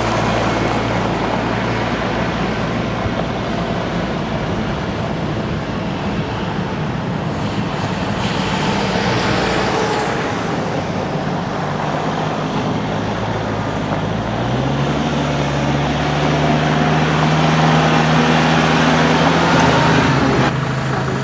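Kubota L4060 tractor's four-cylinder diesel engine running steadily. Its pitch steps up about two-thirds of the way through as the revs rise, then drops back a little just before the end.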